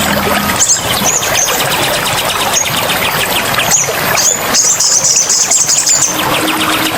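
Small birds giving short, very high chirps over a steady rushing background, with a fast high trill lasting about a second and a half near the middle.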